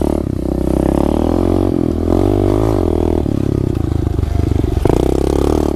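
SSR 125 pit bike's single-cylinder four-stroke engine running under throttle while being ridden, its pitch rising and dropping several times.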